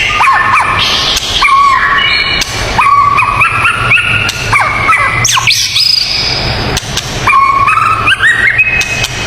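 Bird song: a run of loud whistled notes that hold briefly and step up and down in pitch, linked by quick slurred glides, over a steady low hum.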